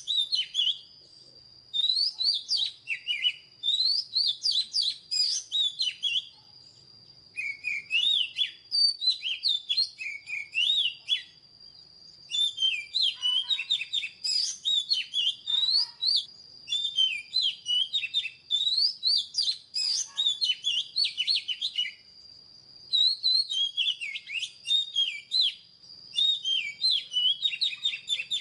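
Oriental magpie-robin singing: varied, rapid phrases of whistled, sliding notes, each lasting a few seconds with brief pauses between, over a steady high tone.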